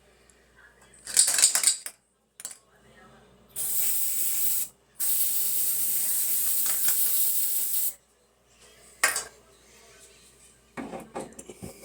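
Spray hissing in two bursts, a short one and then one about three seconds long, with a brief clatter before and a few knocks after.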